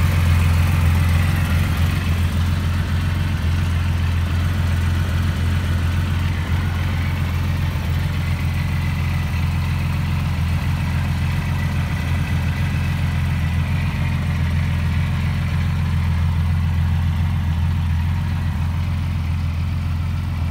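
2002 TVR Tamora's 4.3-litre Speed Six straight-six engine idling steadily with a deep, even note.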